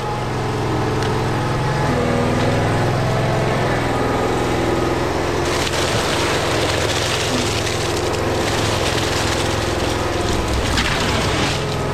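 A large engine running steadily, with a broad rushing, scraping noise joining it about five and a half seconds in.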